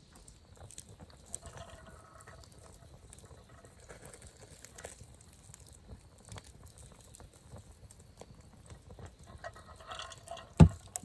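Campfire crackling with small scattered pops, with liquid poured twice, about two seconds in and again near the end, and one sharp knock just after the second pour.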